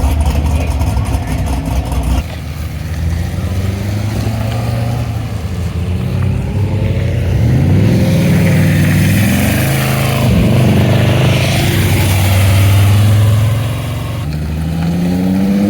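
Car engines at a car meet: a loud rumbling engine close by at first, then engines revving and accelerating away, their pitch rising and falling, with another rising run of acceleration near the end.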